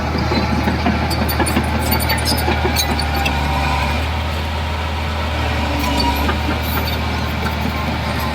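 Heavy diesel engine of an earthmoving machine running steadily at a low, even pitch, with scattered light metallic clicks and clanks over it.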